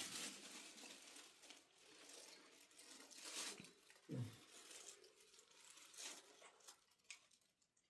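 Near silence with faint rustling and crinkling handling noises, and one brief voice-like sound about four seconds in.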